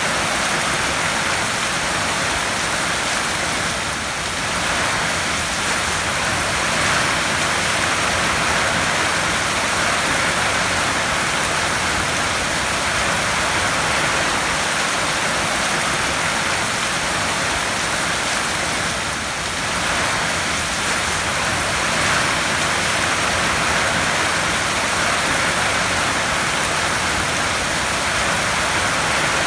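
Heavy rain drumming steadily on a tin roof, an even hiss of countless drops on the metal sheeting.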